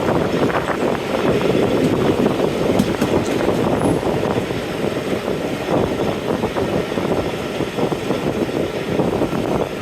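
Diesel-hauled passenger train behind Class 45 locomotive 45108 in motion: a steady rumble with continual clatter of wheels on the rails.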